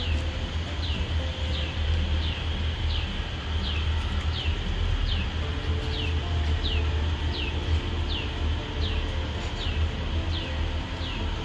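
A bird chirping over and over: short high notes that drop in pitch, about one every three quarters of a second, over a steady low hum.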